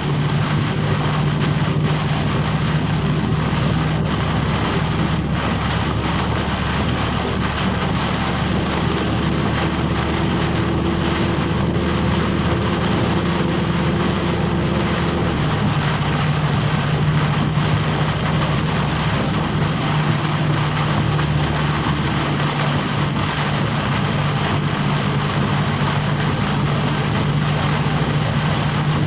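Heavy rain beating down steadily while a box truck's engine runs with a low, even hum; the engine note changes about halfway through.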